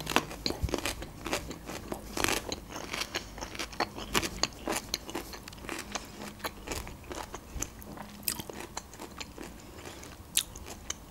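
Close-miked eating: a person biting and chewing food, with many small irregular wet mouth clicks and crunches.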